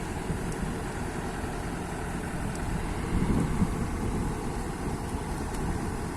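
Kobelco excavator's diesel engine running steadily, swelling slightly about three seconds in.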